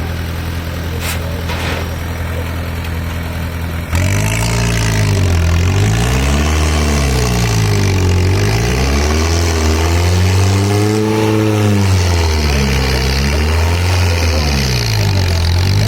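Tractor diesel engine idling steadily, then about four seconds in it turns suddenly louder and is revved up and down over and over, its pitch rising and falling every second or two.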